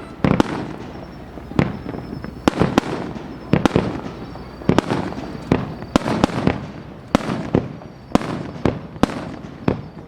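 Fireworks bursting in quick succession: sharp bangs every half second or so, each trailing into a rolling echo, with rumble from other shells.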